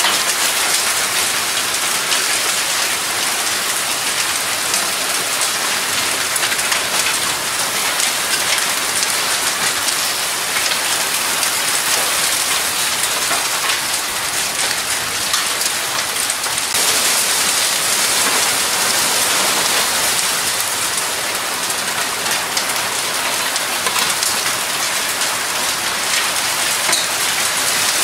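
Heavy rain from a violent thunderstorm falling steadily and hard, a dense, even hiss of countless drops striking surfaces.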